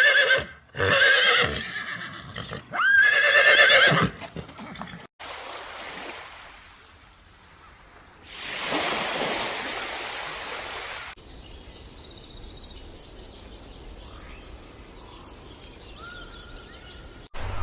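A few loud animal calls with a quavering pitch in the first four seconds, then a rushing noise that swells and fades, then faint high chirps.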